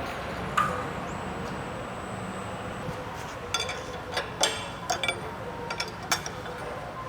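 Metal tools and parts being set down on a workbench: one knock, then after about three and a half seconds a run of clinks and clatters with brief metallic ringing, over a steady shop hum.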